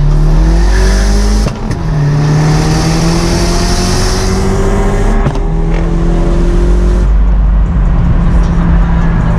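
Turbocharged 1.8T four-cylinder engine of a VW MK4 Jetta with a GT28R turbo, pulling hard under full throttle, heard from inside the cabin. The pitch rises through the gears, with shifts about a second and a half in and about five seconds in, and a high hiss rides over the middle of the pull.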